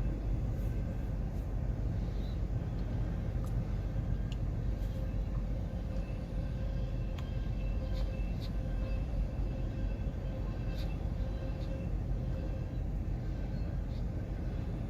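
Freight train rolling steadily past: a continuous low rumble with a faint steady squeal tone and scattered sharp clicks and clanks from wheels and couplers.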